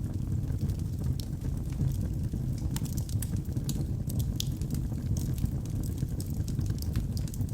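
Log fire burning in a fireplace: a steady low rumble of the flames with frequent sharp crackles and pops scattered irregularly throughout.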